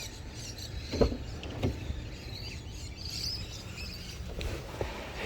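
Car door handled on a Holden Captiva: a sharp clunk about a second in and a lighter knock just after, with a few faint knocks near the end, over a steady low hum.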